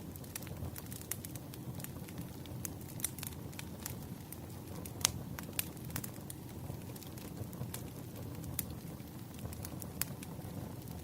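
Wood fire crackling in a fireplace: irregular sharp pops over a low steady rumble, with one louder pop about five seconds in.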